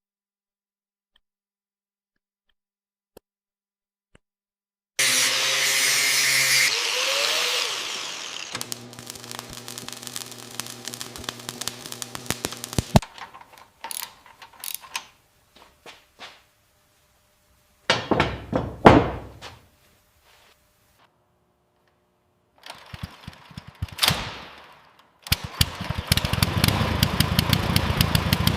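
Workshop build sounds in separate short takes. After about five seconds of near silence, a power tool runs loudly for about two seconds, then clicks and knocks of hand work follow, with a short loud burst of tool noise. Near the end a tool spins down with a falling pitch, and a fast run of rattling clicks over a low rumble follows.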